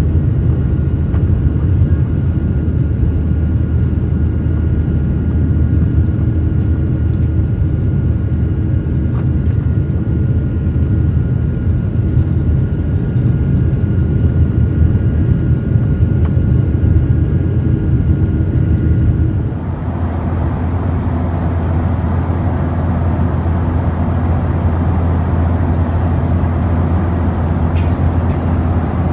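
Steady cabin noise of a Boeing 737-800's CFM56 jet engines and airflow, a loud low rumble with faint steady tones over it. About two-thirds of the way through it changes abruptly to a hissier rumble without the tones.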